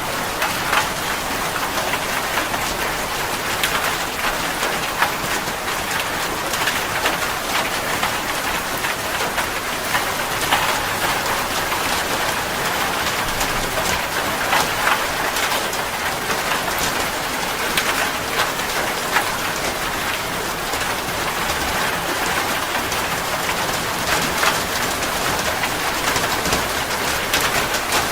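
Steady rain falling, with a dense patter of individual drops ticking against a surface.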